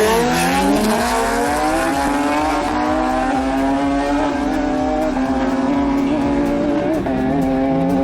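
Suzuki Hayabusa's inline-four engine pulling hard at high revs. The pitch climbs over the first two seconds and then holds high, drops at a gear change about seven seconds in, and starts climbing again.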